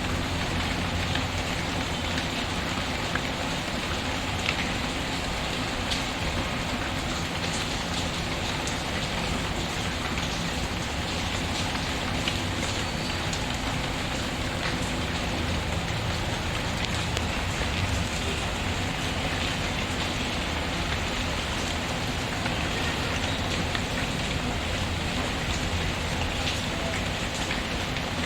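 Steady rain pattering, with a log fire crackling now and then: a few sharp pops sit in the even hiss of the rain.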